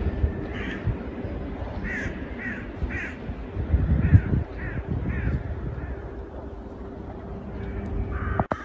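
A bird calling repeatedly outdoors: seven short calls in two runs, over a steady low rumble that swells about four seconds in.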